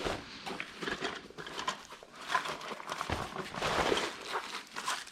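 Rustling and irregular light knocks and clatter of stand parts and packaging being handled.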